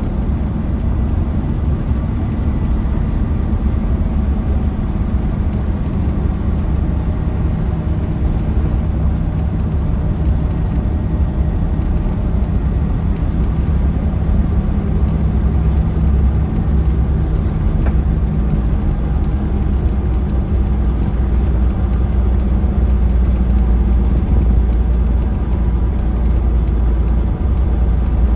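Scania L94UB bus's Scania DC9 engine running under way, with road noise, heard from inside the passenger cabin: a steady low drone that grows a little louder near the end.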